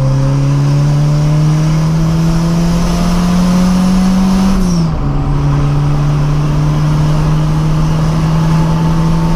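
Turbocharged VW Gol engine pulling at full throttle in third gear, its pitch rising steadily, then dropping as it shifts into fourth about five seconds in and climbing again, heard from inside the cabin. A whine from the used VW Voyage gearbox runs under load; it sounds like a racing gearbox, which the owner fears means the gears are worn after the gearbox leaked oil.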